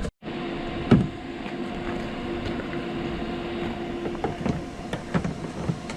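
A steady machine hum over background noise, stopping about four seconds in, with a sharp knock about a second in and a few lighter clicks afterwards.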